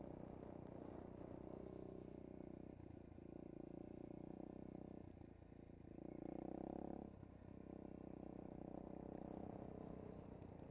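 SSR 125cc pit bike's engine running at low speed while the bike rolls slowly, with a short rise in revs about six seconds in, then a brief dip.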